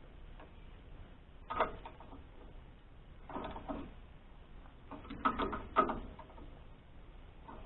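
Short bursts of mechanical clicking and clanking from hand work with tools on a sawmill, coming in three clusters about two seconds apart.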